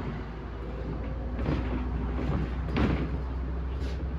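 Inside a MAZ 105 city bus: the engine is running with a steady low hum. Two short clattering knocks come about one and a half and three seconds in.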